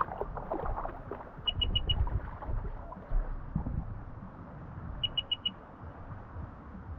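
Sea-Doo jet ski's beeper sounding groups of four short, high beeps, twice, over a low rumble of water and wind.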